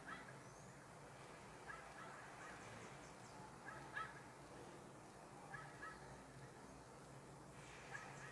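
Near silence with faint short bird calls, five of them about every two seconds.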